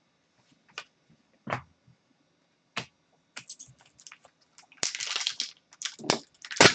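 Trading cards being handled on a table: scattered sharp clicks and taps. There is a short rustling stretch about five seconds in and a louder click near the end.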